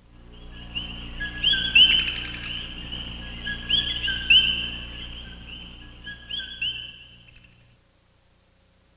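Birds singing: a run of high whistled chirps and short rising trills over a faint low hum, dying away near the end.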